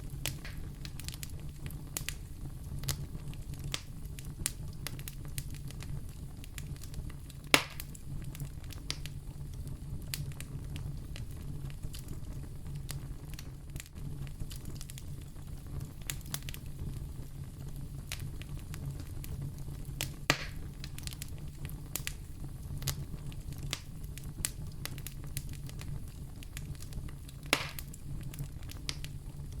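Wood fire in a fireplace crackling: a steady low rumble of flame under frequent small snaps, with three louder pops spread through.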